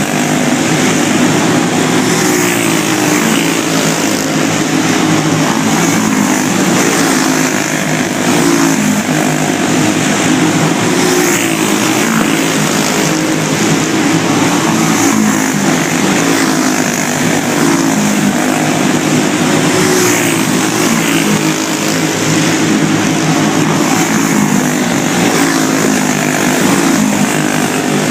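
Go-kart engines racing, their pitch rising and falling over and over as they speed up and back off.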